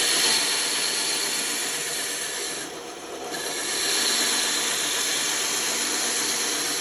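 Bandsaw cutting through wood: a steady, hissing rasp of the blade in the cut, broken by a short drop about three seconds in before the next cut.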